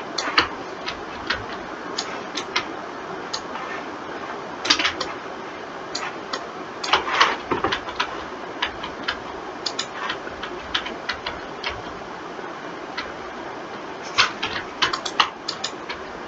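Computer mouse and keyboard clicking at an irregular pace, single clicks and quick runs of several, over a steady hiss.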